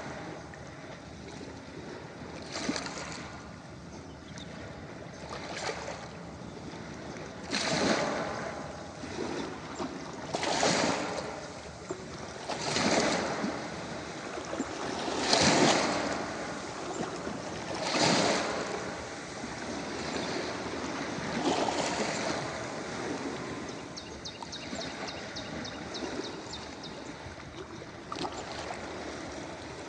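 Ocean waves washing onto a beach: a steady hiss of surf, with a run of waves swelling and breaking every two to three seconds through the middle, the loudest about halfway.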